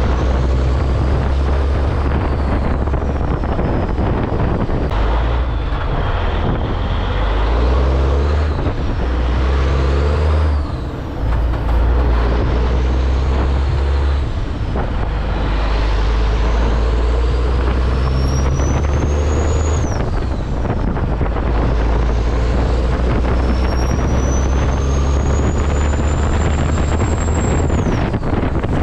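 Heavy diesel truck engine running under load. A high whine climbs with engine speed and drops away twice, once about two-thirds in and once near the end, as the truck pulls through its gears.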